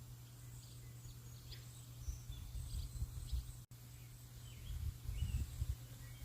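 Small birds chirping in short, scattered calls over a low, gusty rumble; the sound cuts out for an instant a little past halfway.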